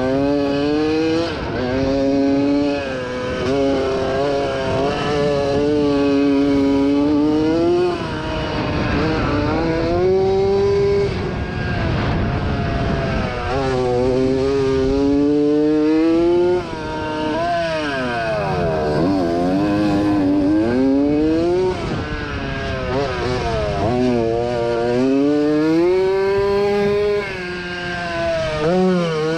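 1987 Yamaha YZ80 two-stroke motocross engine racing, revving up and dropping back over and over as the rider accelerates, shifts and backs off.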